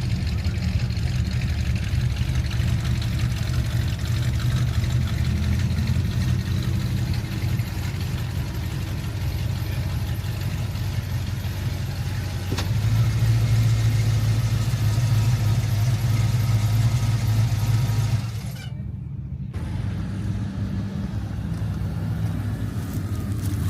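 A car engine idling with a deep, steady rumble. It grows louder for several seconds past the middle, then drops off abruptly and carries on more quietly.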